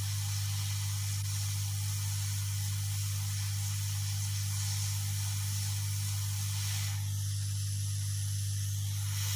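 Hot air rework station blowing a steady hiss, with a constant low electrical hum underneath. The hiss thins about seven seconds in.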